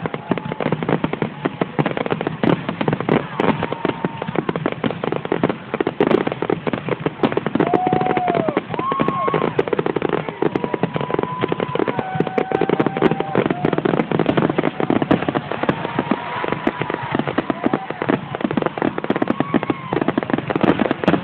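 Aerial fireworks display: dense, continuous crackling and banging of bursting shells, with short whistling tones rising over it again and again.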